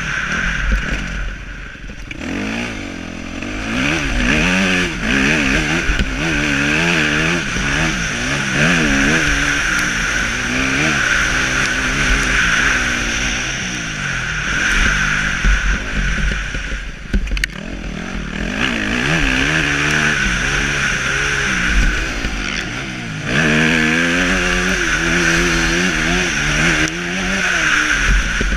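Motocross motorcycle engines revving, the pitch rising and falling again and again as the bikes ride, with a short lull about two-thirds of the way through before the revving picks up again.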